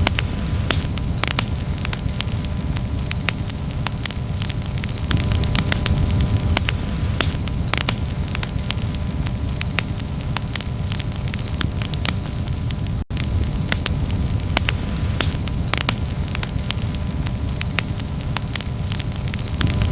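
Campfire crackling, with frequent irregular sharp pops and snaps over a steady low rumble of the burning wood. The sound cuts out for a split second about two-thirds of the way through.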